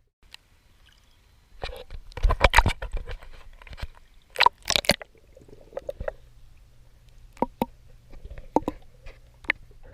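Water splashing and sloshing as a swimmer strokes through the sea, in irregular surges with two stronger splashes about two and four and a half seconds in, and small drips and splashes between.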